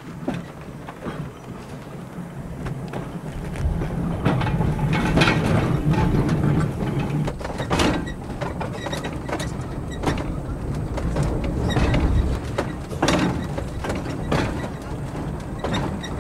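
Streetcar running on the track: a low rumble that builds about three and a half seconds in, with irregular clacks and knocks.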